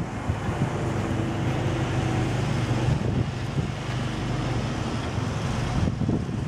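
Blizzard wind buffeting the microphone: a continuous, fluctuating low rumble.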